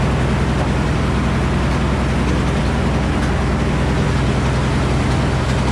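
Engine running steadily at constant speed, the power unit of a Frick sawmill, with an even low hum; it cuts off suddenly at the very end.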